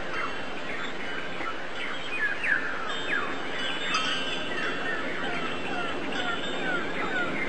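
Many birds chirping together: quick, short, down-slurred chirps overlapping without a break, over a steady background hiss.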